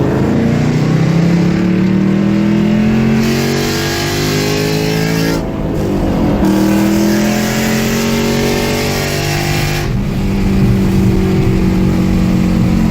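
2016 Mustang GT's 5.0-litre V8 accelerating through the gears of its manual gearbox. The engine note climbs and drops back at upshifts about five and a half seconds in and again about ten seconds in.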